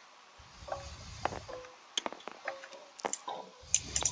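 Small hard dice clattering as they are handled, in three short bursts with light ringing clicks, and a few separate sharp clicks between them.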